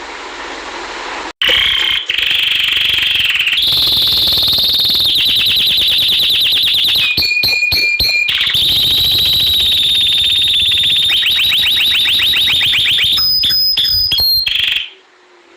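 Domestic canary singing a long, loud song of rapid trills and held whistled notes, which starts about a second in and cuts off suddenly near the end.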